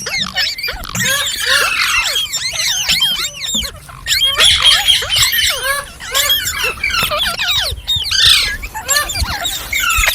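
Several green parrots squawking and chattering at once, a dense stream of short overlapping calls with brief lulls about four and six seconds in.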